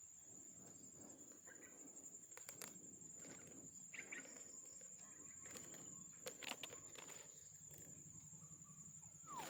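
Quiet natural ambience: a steady high-pitched insect drone, with a few faint short bird chirps about four seconds in and a falling bird note near the end, plus scattered faint clicks.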